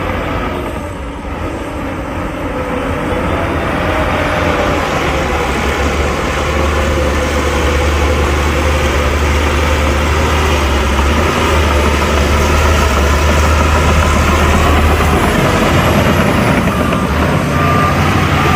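Heavy diesel engine of an earthmoving machine running. It dips briefly about a second in, then grows louder over the next few seconds and holds steady.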